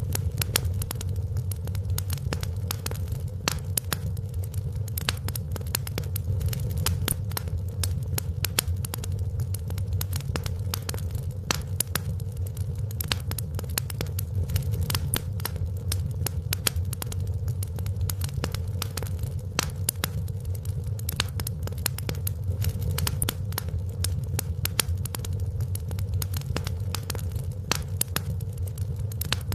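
Wood fire burning in a fireplace: steady low rumble of the flames with many sharp, irregular crackles and pops.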